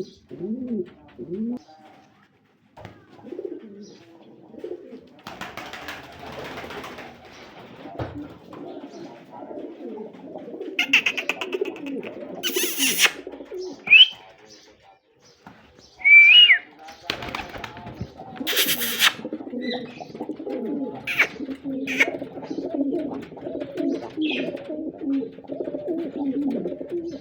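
Domestic pigeons cooing over and over in low, rolling calls, with a few short bursts of noise and a couple of brief high chirps in between.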